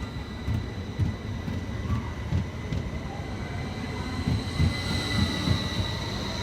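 Class 333 electric multiple unit pulling out, its electric traction equipment whining at a steady high pitch over a low rumble and irregular knocks from the wheels and bogies.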